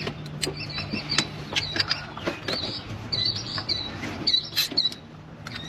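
Irregular clicks and knocks of hand tools working on a car engine during a spark-plug change, with small birds chirping over a low steady hum.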